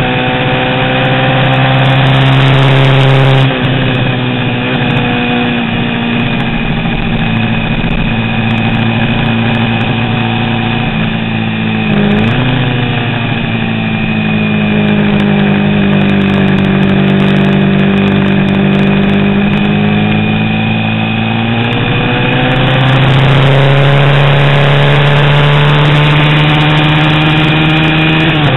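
A 350 cc vintage racing motorcycle engine running hard. Its note holds high and steady, drops in pitch a few seconds in, and gives a quick blip near the middle. It then sags lower and climbs back to the high steady note about three-quarters of the way through.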